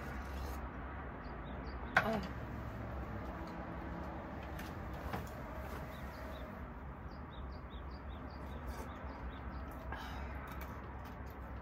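Quiet outdoor ambience with faint bird chirps now and then over a steady low hum, and a single short knock about two seconds in.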